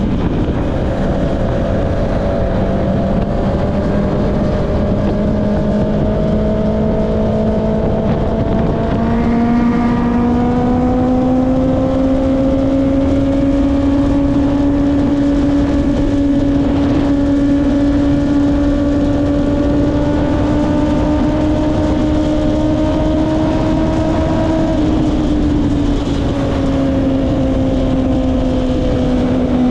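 Honda CB650R's inline-four engine through an Akrapovic exhaust, pulling steadily on the move. The revs climb gradually, then ease off a few seconds before the end, with a rushing noise of wind and road underneath.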